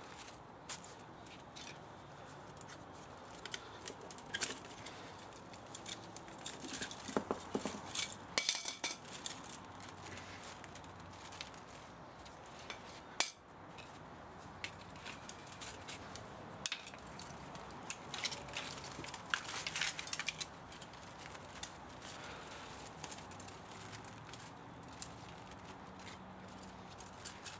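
Irregular light metallic clinks, clicks and scrapes of motor parts and hand tools being handled during the scrapping of an electric spa motor, busiest in two stretches, with one sharp click about halfway through.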